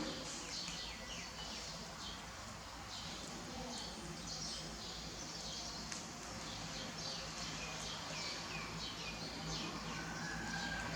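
Small birds chirping: many short, quick, falling chirps repeating over a steady low hum.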